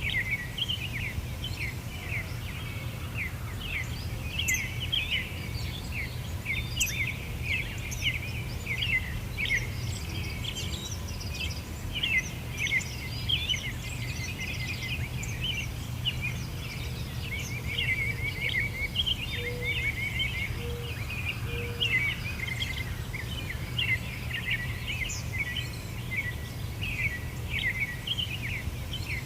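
Many small birds chirping continuously in a dense chorus of short, quick calls, over a steady low rumble.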